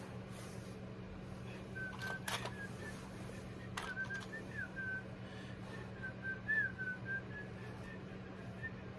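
A person whistling a tune quietly, a string of short held notes with small slides in pitch, over a steady low hum. Two sharp clicks come about two and four seconds in.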